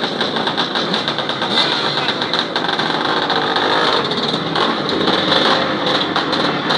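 Several vintage motocross motorcycle engines running together, idling and blipping the throttle as the bikes are called up to the starting gate.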